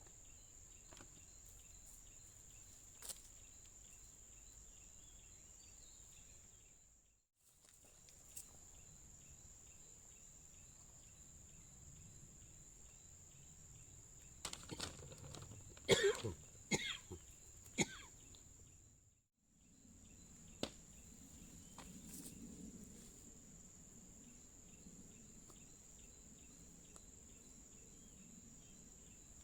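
Faint, steady high-pitched insect drone, cutting out briefly twice, with a handful of sharp clicks and knocks about halfway through.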